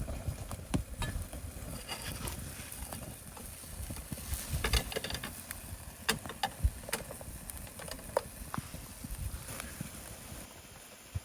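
Irregular clicks and knocks of camp cooking gear and ingredients being handled while beef stew is prepared, with a quick cluster of taps about halfway through.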